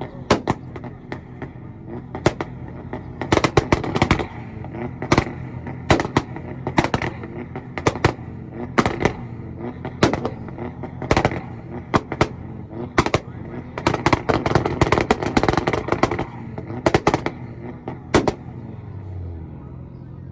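Nissan's engine held on a two-step launch rev limiter, firing sharp exhaust bangs and pops, singly and in rapid clusters, over its steady running. The bangs stop about 18 seconds in and the engine settles to a steady idle.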